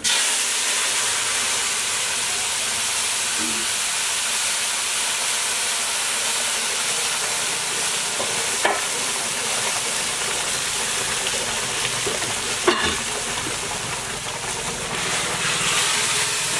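Green taro leaf mixture sizzling hard in hot oil in a wok, starting suddenly as it is poured in and holding at a steady loud hiss. Two light knocks come through it, in the middle and later on.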